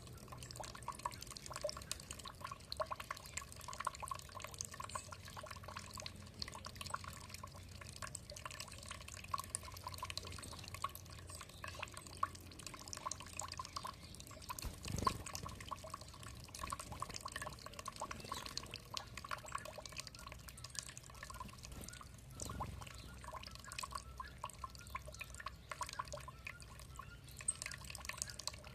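Water dripping and trickling in a dense, uneven patter of small drops. Two soft low thuds come about halfway and about three-quarters through.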